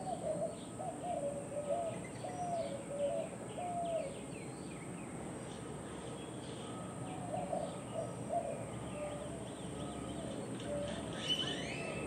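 Backyard birds calling: a low call note repeated about six times in quick succession, then a second series after a pause, with fainter higher chirps from other birds over a steady background hum.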